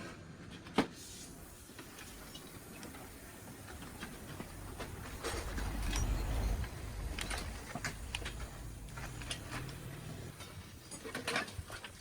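Workshop handling sounds: scattered clicks and knocks of tools and metal parts, with a low rumble swelling in the middle.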